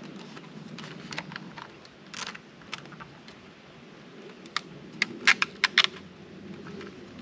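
Sharp plastic clicks as a zip tie is fed through its locking head and worked around the inflator's plastic handle: a few scattered clicks, then a quick run of five or six louder ones about five seconds in.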